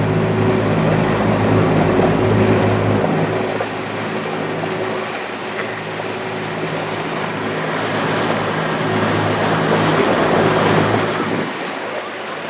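Motorboat engine running with a steady hum, loudest in the first few seconds, over the rush of water along the hull.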